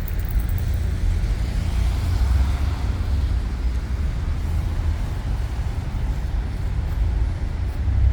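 Steady low rumble with an even hiss of noise above it, with no distinct events.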